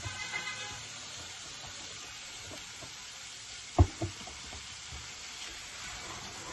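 Moong dal frying in its spiced masala in a pot on the gas stove, a steady sizzle with the light scrapes and clicks of a spoon stirring it. One sharp knock stands out a little before four seconds in.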